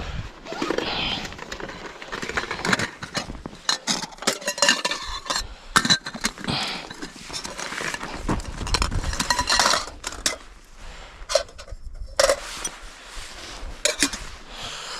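Metal camping gear being handled: irregular light clinks, knocks and scrapes of metal on metal.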